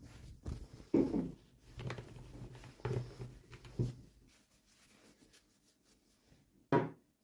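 Hands handling small plastic toys and their packaging: a run of light knocks and rustles about once a second, a quieter stretch, then one sharper knock near the end.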